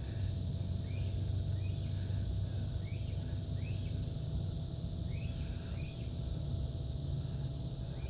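Small birds chirping, short rising chirps every second or so, often two close together, over a steady low outdoor rumble.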